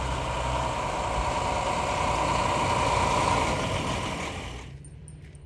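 A vehicle engine idling steadily, a low rumble with a steady hum, which fades out quickly near the end.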